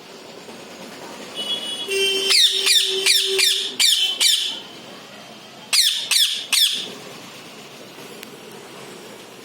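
Pet parrot calling: a quick run of about six sharp, shrill calls, each falling in pitch, then three more a second later.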